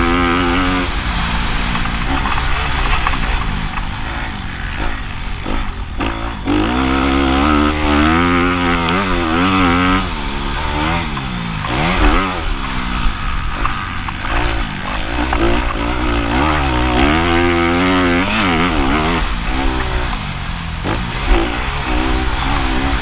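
Motocross dirt bikes racing on a sand track. Several engines overlap, revving up and down so their pitch keeps rising and falling.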